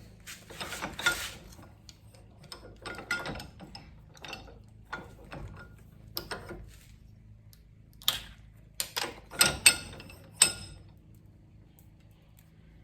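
Irregular clicks, taps and short scrapes of hand tools on small hard parts as a spark plug boot is picked and broken apart. The sharpest clicks come in a cluster about two-thirds of the way through.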